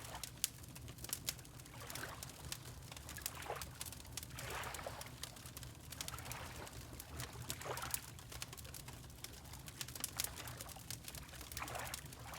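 Wood fire crackling in a fireplace, with many sharp little pops, over water lapping in soft swells every second or few seconds and a steady low rumble.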